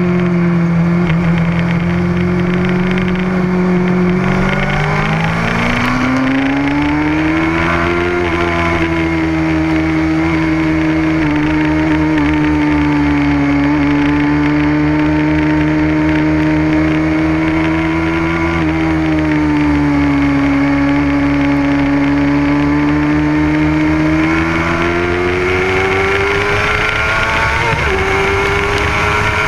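Motorcycle engine running at speed on track, its pitch climbing steadily as it accelerates, holding, easing off for a while and then rising again near the end.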